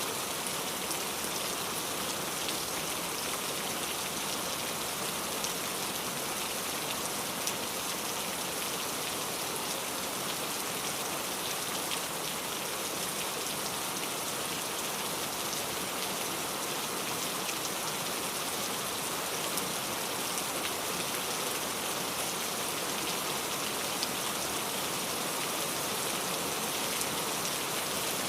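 Steady rain falling, a dense even hiss of drops with small individual drop ticks scattered through it.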